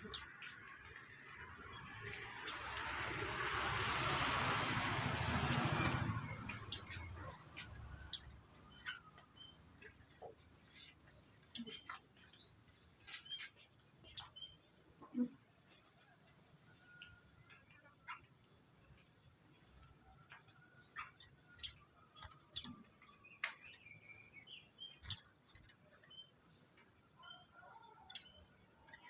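White-eye birds giving short, sharp chirps at irregular intervals over a steady high insect drone. A broad rushing noise swells and fades from about two to six seconds in.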